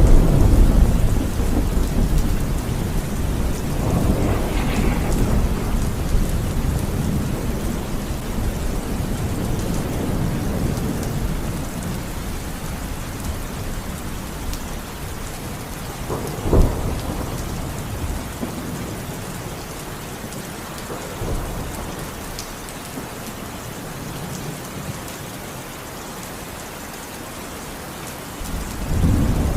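Steady rain in a thunderstorm with rolling thunder: a long rumble right at the start and another about four seconds in, a sharp clap of thunder about halfway through, a smaller one a few seconds later, and another rumble building near the end.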